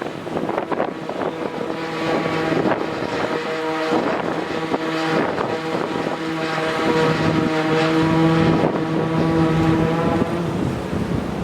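An engine running steadily with a pitched hum, over a rushing, crackling noise.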